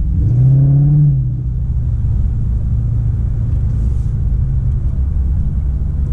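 Dodge Charger R/T's 5.7-litre Hemi V8 exhaust droning while driving, with a short swell in revs in the first second before it settles back to a steady cruising note.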